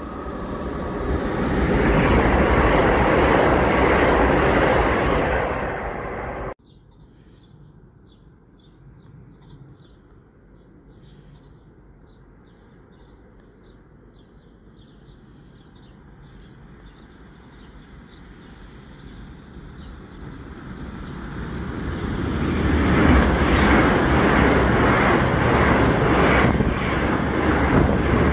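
A passenger train running into the station, its rushing rail and engine noise building to loud over about two seconds and then cut off abruptly. After a much quieter stretch, a second train approaches, its noise building over several seconds and staying loud as it runs past along the platform.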